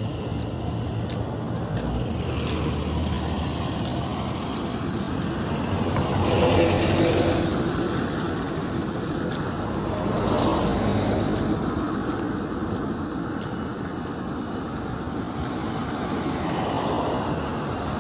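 Road traffic: the steady noise of cars driving past, swelling as vehicles pass, loudest about seven and ten seconds in.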